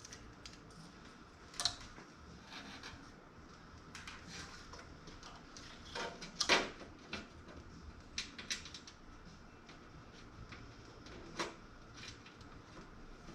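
Scattered light clicks and taps of plastic PC case fans and small hardware being handled and fitted, with a cluster of sharper clicks about six seconds in.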